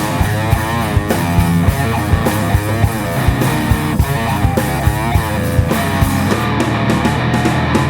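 Improvised rock jam: electric guitar playing bending, wavering lead lines over bass and a steady drum beat.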